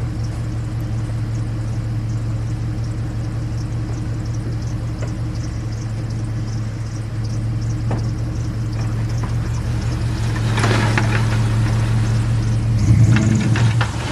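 Farm truck engine running steadily at low revs while the truck is eased forward and back to work a snowplow blade loose. From about ten seconds in there are knocks and rattles, with a louder clunk near the end.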